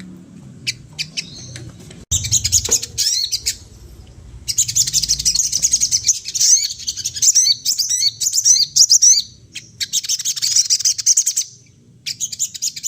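A sogon (sunbird) singing a fast, high twittering song of chirps and trills in several bursts, the longest in the middle.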